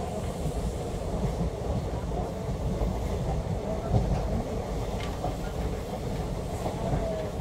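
Moving train: a steady low rumble of wheels running on the rails, with one sharp click about five seconds in.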